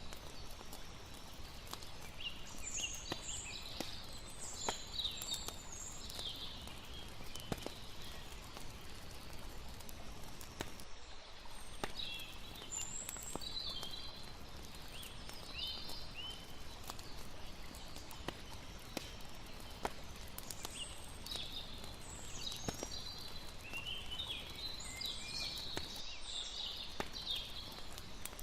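Layered night ambience: a campfire crackling with frequent sharp pops over a steady hiss of water, and flurries of quick, high chirping calls in three stretches, near the start, in the middle and towards the end.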